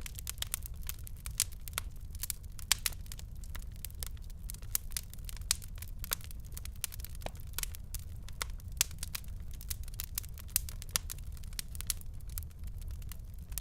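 Wood fire crackling: dense, irregular sharp pops and snaps over a low steady rumble of the burning.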